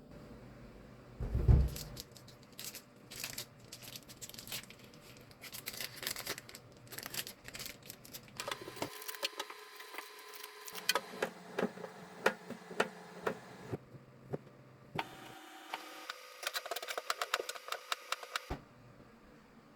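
Kitchen food-preparation sounds: a single heavy thump about a second and a half in, then a long run of quick clicks, knocks and rattles as things are handled.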